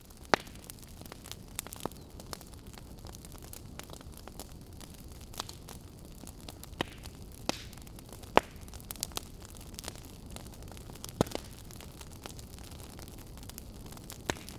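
Burning wood fire: a steady hiss with frequent irregular crackles and pops, a few of them sharp, loud snaps.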